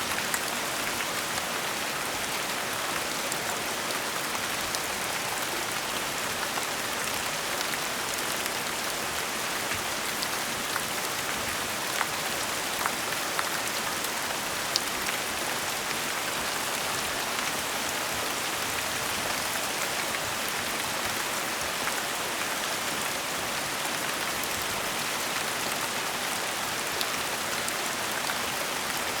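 Steady gentle rain falling, an even hiss with scattered individual drops pattering on a surface.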